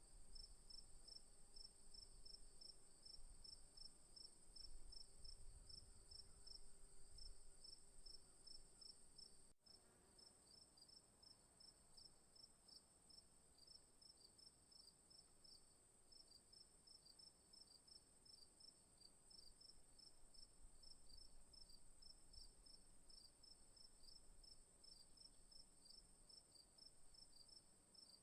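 Night insects in the bush: crickets chirping in a steady, regular rhythm of a few chirps a second over a continuous high-pitched insect trill. The sound drops out for an instant about nine and a half seconds in.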